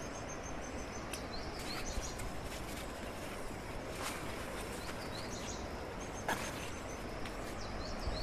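A bird calling every few seconds, short high chirps and a quick run of notes, over a steady outdoor hiss. A few brief clicks and rustles of leaves and stems as a ridge gourd is picked from its vine.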